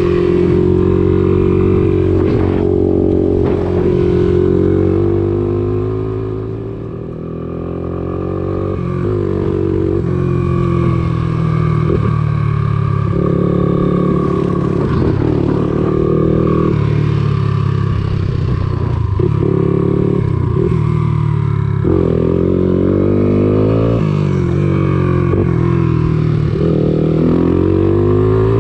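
Honda three-wheeler (ATC) engine running and revving up and down over and over, its pitch rising and falling, with a brief easing off about seven seconds in.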